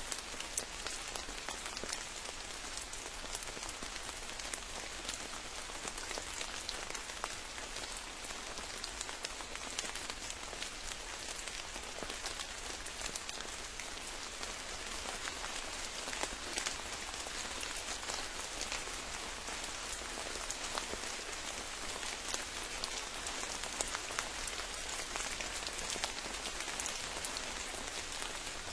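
Steady rain falling on a forest, with a constant hiss of many drops and a dense patter of sharper individual drop hits.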